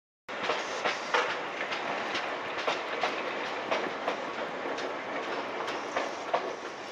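JR East limited-express electric train running, a steady rumble of wheels on rail with many irregular sharp clicks from the wheels crossing rail joints. It starts abruptly just after the start.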